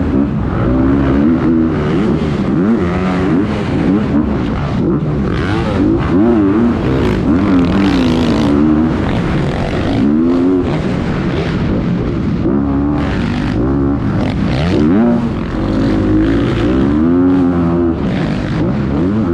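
Motocross dirt-bike engines revving hard, the pitch rising and falling over and over as the throttle is opened and closed.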